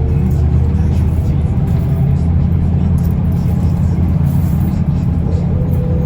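Mercedes-Benz O405N2 low-floor city bus heard from inside while riding: a steady engine drone with road rumble. A faint whine comes in near the end and rises slightly.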